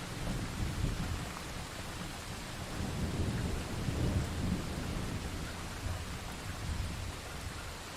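Thunderstorm sound effect: steady rain hiss under a low, rolling thunder rumble that swells to its loudest about halfway through, then eases.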